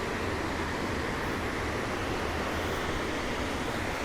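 Steady rushing noise, even and unbroken throughout, with no distinct events.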